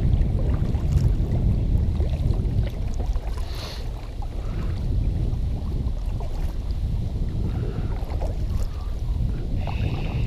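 Wind buffeting the microphone in a steady low rumble, with faint splashing of a kayak paddle in the water.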